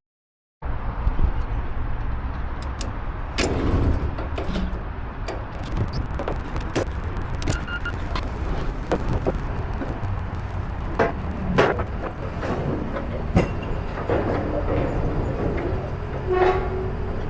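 Steady low rumble of a moving vehicle, with scattered clicks and knocks and a short tone near the end.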